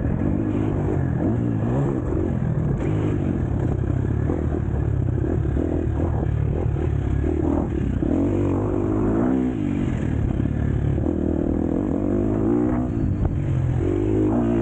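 KTM SX-F four-stroke motocross bike engine revving up and down again and again, its pitch rising and falling as the throttle opens and closes.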